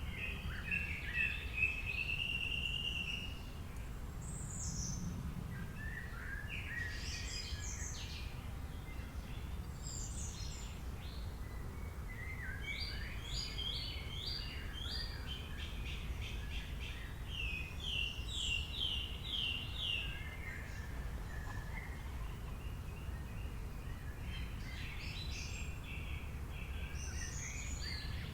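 Songbirds singing and calling in overlapping phrases, with quick runs of four or five clear notes, over a steady low background rumble.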